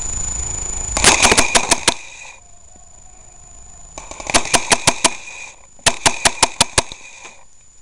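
Airsoft gun firing three short rapid bursts, each under a second, with a whine under each burst.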